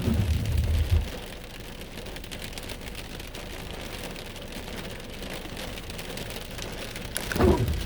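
Steady rain pattering on a car, heard from inside the car, with a low rumble for about the first second.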